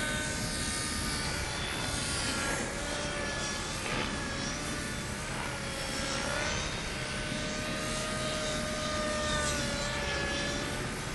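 Blade mCP X micro collective-pitch RC helicopter in flight: a steady electric whine from motor and rotor, its pitch drifting up and down as the throttle changes, over gusty wind rumbling on the microphone.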